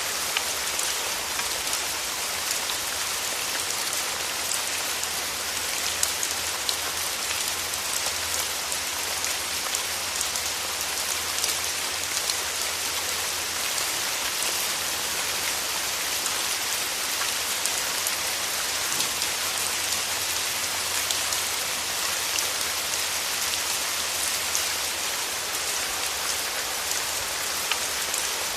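Steady rain falling on a surface, a constant hiss with many individual drops ticking through it.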